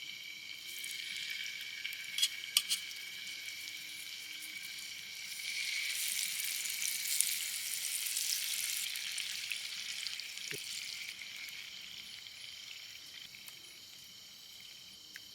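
Marinated chicken tikka pieces sizzling as they are laid one by one into hot butter and oil in a pan. There are a few light clicks about two seconds in, and the sizzle swells from about six seconds in, then slowly fades.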